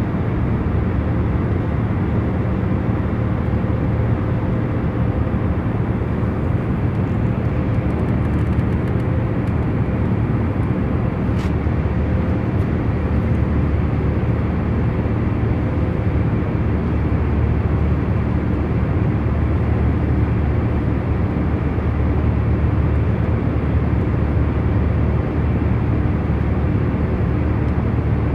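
Jet airliner cabin in cruise: a steady deep rumble and rushing hiss with a faint hum of a few held tones, and one faint tick about eleven seconds in.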